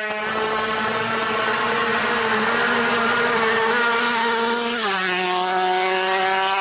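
Drag-racing motorcycle engine revved and held at high, steady revs, dropping to slightly lower revs about five seconds in.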